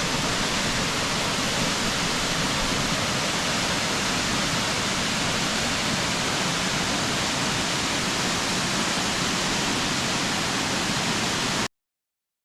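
Dry Falls waterfall, a steady rush of falling water heard close from the viewing platform, even and unbroken; it cuts off abruptly near the end.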